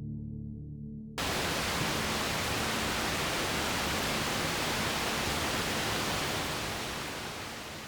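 Ambient music with sustained bell-like tones cuts off about a second in, giving way to the steady, even rush of flowing water that slowly fades near the end.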